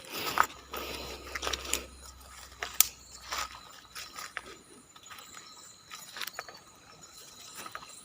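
Irregular crunches, scrapes and sharp clicks, like footsteps and movement on dry ground, denser in the first two seconds and then sparser.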